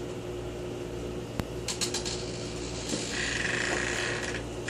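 Steady low hum inside a car cabin, with a few faint clicks and rustles and a short stretch of hiss about three seconds in.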